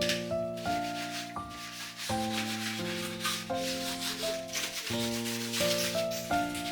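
Background piano music, a string of single notes, over a steady rough scrubbing sound of kitchen cleaning.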